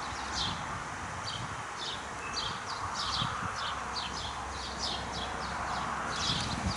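Bird chirping: short, high, downward-slurred chirps repeated about two a second over a steady background hiss.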